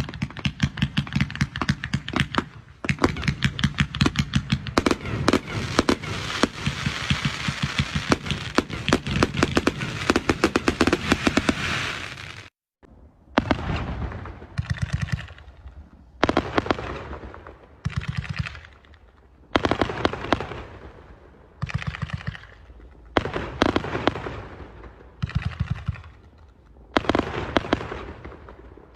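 Fireworks going off in rapid crackling volleys: a dense, continuous barrage of bangs for about twelve seconds, then after a sudden brief break, a run of short bursts of rapid bangs about every two seconds, each dying away.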